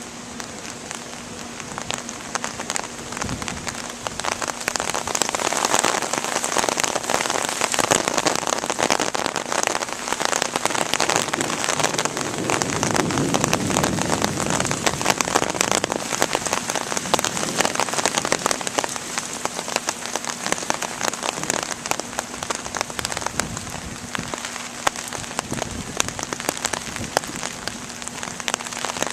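Heavy thunderstorm rain pouring down, a dense hiss full of close drop impacts. It builds over the first few seconds, is heaviest through the middle and eases somewhat in the last third.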